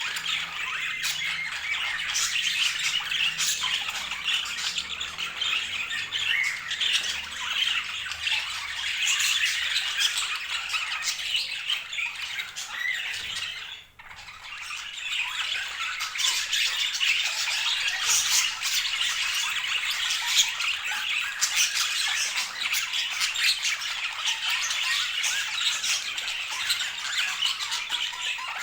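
Budgerigars chattering and squawking in a continuous dense stream of short, rapid calls, breaking off for a moment about halfway through.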